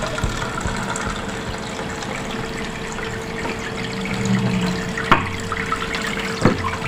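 Water trickling and splashing steadily from a small homemade plastic-bottle waterfall fountain fed by a mini submersible pump. Two sharp clicks come through, one about five seconds in and one near the end.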